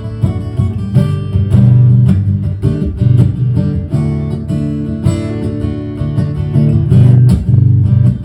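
Acoustic guitar strummed in a steady rhythm, an instrumental passage between sung lines of the song.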